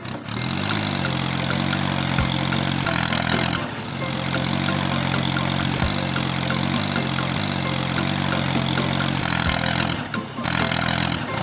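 An engine running steadily at an even pitch, cutting out briefly about three and a half seconds in and again about ten seconds in.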